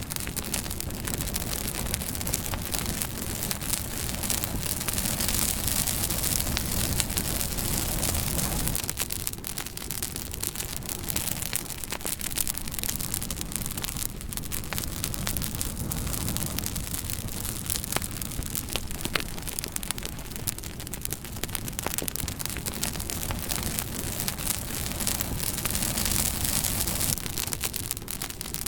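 Wood fire crackling, with frequent sharp pops and snaps over a steady low rushing noise that swells and eases.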